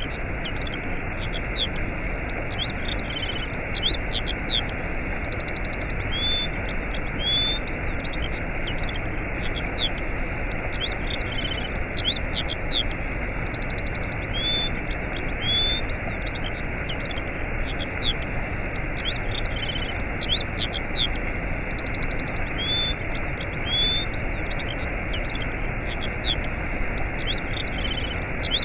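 Steady rush of a waterfall, with many songbirds chirping and trilling above it in quick, short calls and rising and falling whistles.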